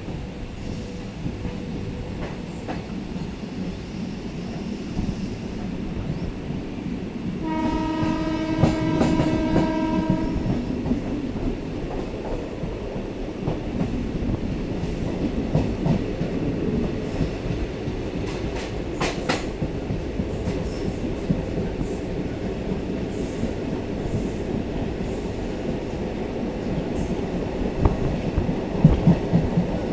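Train running steadily on the track with a continuous rumble and occasional wheel clicks. About seven seconds in, the WAP-5 electric locomotive's horn sounds once, a single held tone for about three seconds.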